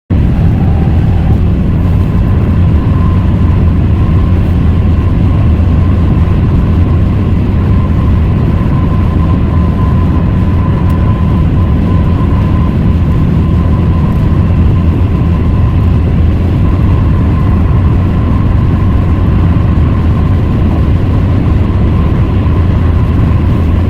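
Steady low road and engine rumble inside a moving car's cabin, with a faint steady whine above it.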